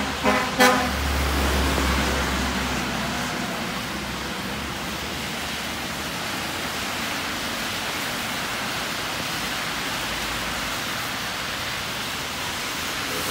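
Heavy rain falling steadily on a flooded street, a constant even hiss, with cars passing on the wet road. A low rumble from a passing vehicle comes in the first few seconds, and a few short sharp sounds come right at the start.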